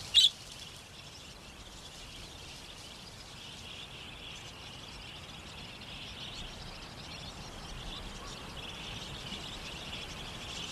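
Wild budgerigars calling, with one short, loud chirp right at the start, then a steady background of flock chatter that swells a little in the second half.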